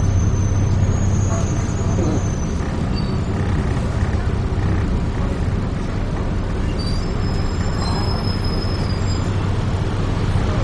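Dennis Trident 2 double-decker bus heard from inside the cabin while under way: a steady low engine drone with road and body noise. Thin high-pitched squeals come in near the start and again about seven seconds in.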